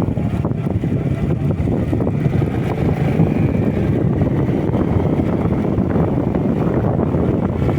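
Wind rushing over the microphone on a moving motorcycle, a steady low roar of air and road noise with the bike running underneath. A faint whine drifts slightly in pitch.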